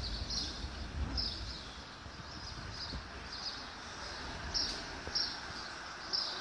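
Small birds chirping, short high chirps repeating about once or twice a second, over steady outdoor background noise with a low rumble in the first second or two.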